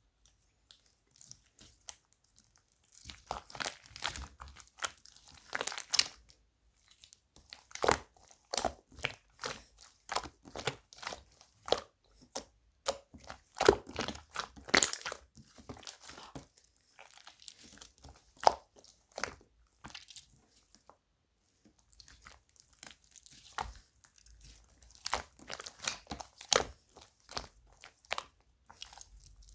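Slime being squeezed and pressed by hand, giving clusters of sharp crackling and popping clicks with short pauses between them.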